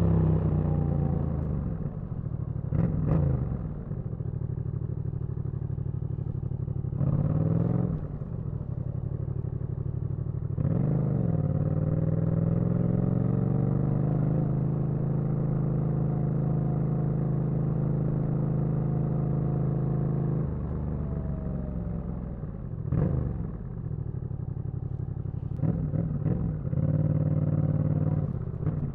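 Yamaha MT-07 parallel-twin engine under way. Its pitch falls as the bike slows at first. Then come several short throttle surges that rise and drop back, and a long stretch at a steady engine speed before more quick revs near the end.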